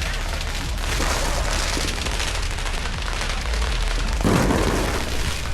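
Fireworks going off: a dense crackling like heavy rain over a low rumble of booms, with a louder burst about four seconds in.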